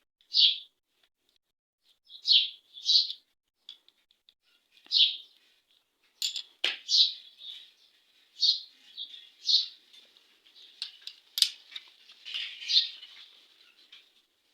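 Small birds chirping repeatedly in short calls, with a few sharp metallic clicks from tools or engine parts being handled, the loudest a little past the middle.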